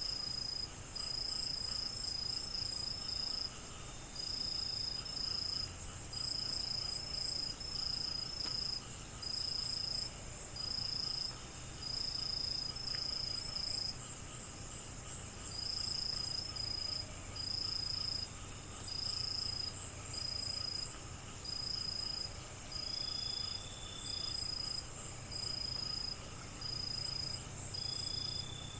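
Night chorus of crickets: one loud, high-pitched cricket trilling in regular pulses just under a second long, about one a second, over a dense, steady chorus of higher-pitched insects.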